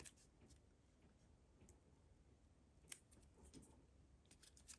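Near silence, with a few faint ticks and rustles from paper pieces and foam adhesive dimensionals being handled; most of the ticks come near the end.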